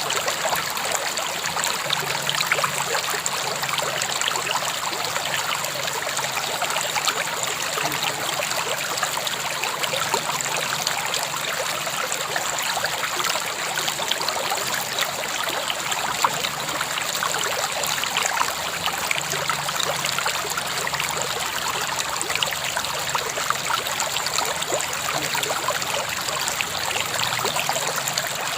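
River water flowing and trickling over stones, a steady babbling wash with fine splashes.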